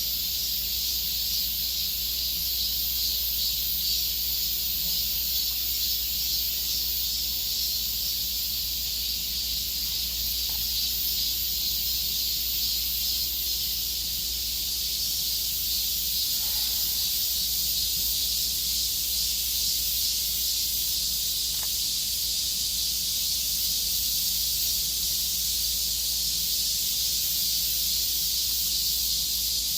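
Steady, high-pitched chorus of insects, a dense shimmering hiss, over a low steady hum.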